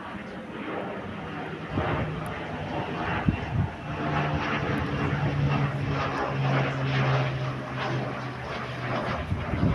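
Thrush S2R agricultural aircraft flying over: a steady engine and propeller drone that comes up strongly about four seconds in and holds before easing near the end.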